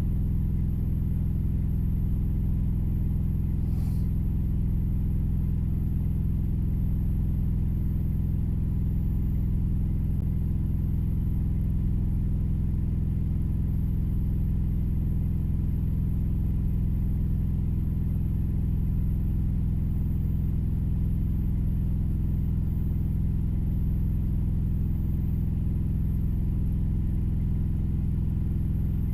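Steady low engine rumble of an idling vehicle, heard from inside the cab, unchanging throughout. A single faint click comes about four seconds in.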